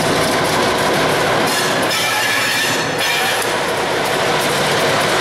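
Short-line freight train rolling slowly on the rails, its wheels squealing against the track. The sound is loud and steady, with an abrupt change about three seconds in.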